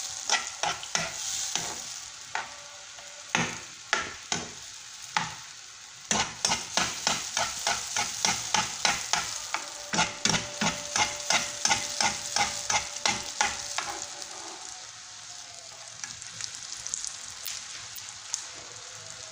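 Zlabia batter frying in shallow hot oil in a pan, sizzling steadily, with a metal spoon clicking and scraping against the pan. The clicks come in a fast even run of about three or four a second through the middle, leaving mostly the sizzle near the end.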